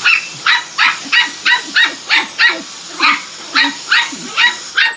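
A dog barking in rapid short barks, about three a second, at a Dyson V10 cordless vacuum cleaner running with a steady high whine; the vacuum cuts off just before the end.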